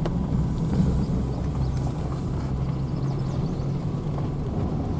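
Pickup truck carrying a camper driving along, a steady low engine hum and road rumble heard from inside the cab.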